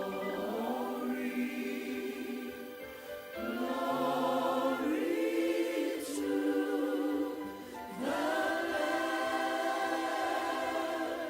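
Choir singing a slow worship song in long held chords, with new phrases starting about three and a half and eight seconds in.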